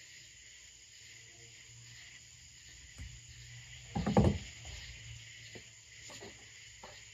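Steady chorus of insects in the background. About four seconds in comes a short, loud clatter of knocks, followed by a few lighter clicks, from handling tools and parts during wiring work.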